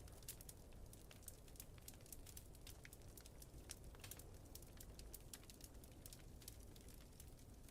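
Faint wood fire crackling, with many small sharp pops at irregular intervals, over a steady low rumble of blizzard wind.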